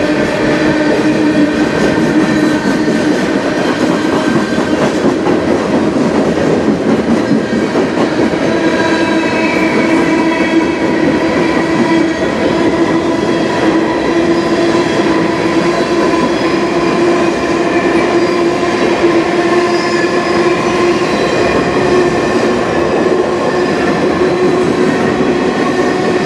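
Freight cars of a CN freight train rolling past at speed. The steel wheels and rails make a loud, steady rumble with a constant humming tone running through it.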